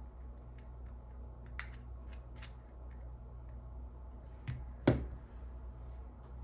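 Light clicks and ticks of small lens parts and tools being handled during disassembly of a Sony SELP1650 lens, with a sharper double knock, the loudest, about five seconds in.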